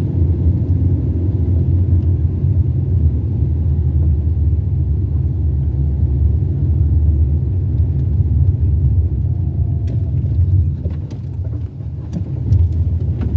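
Car driving, a steady low engine-and-road rumble heard from inside the cabin, easing off briefly about eleven seconds in, with a few faint clicks near the end.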